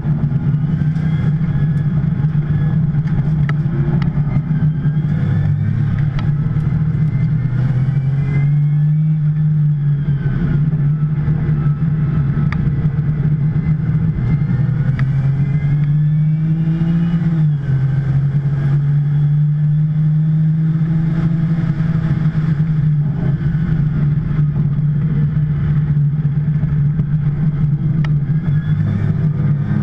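2010 Porsche 911 Turbo's twin-turbo flat-six running hard at racing speed, its engine note climbing under acceleration and dropping sharply at gear changes and lifts, about every several seconds.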